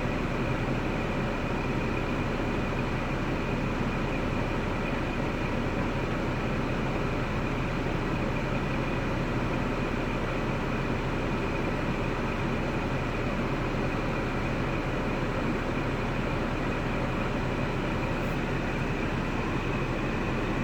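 A steady mechanical drone with a low hum and a thin, high-pitched whine above it, holding the same level without any change.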